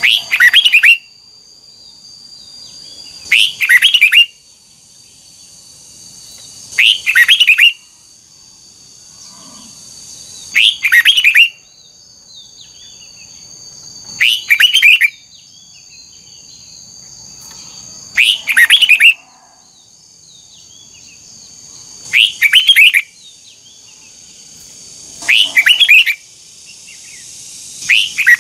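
Red-whiskered bulbul singing the same short double-burst phrase over and over, about once every three and a half seconds. A steady high-pitched whine runs behind it.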